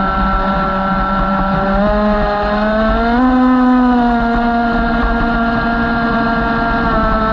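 A model boat's motor running steadily, its pitch stepping up about two seconds in and again a little after three seconds, then easing back down.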